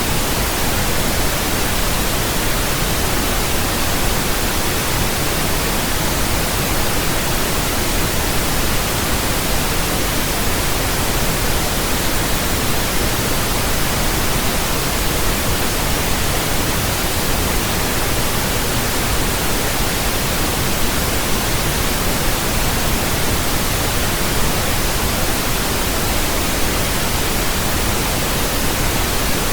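Steady pink noise: an even, unchanging hiss with a softer low end than white noise.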